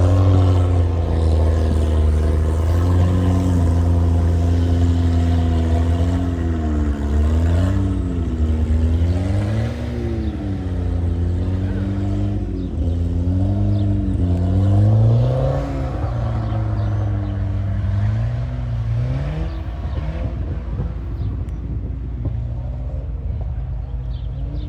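Volvo 740 Turbo's turbocharged four-cylinder engine under load in a rally car, held at fairly steady revs at first and then rising and falling repeatedly as the throttle is worked. A constant low rumble from the car runs underneath.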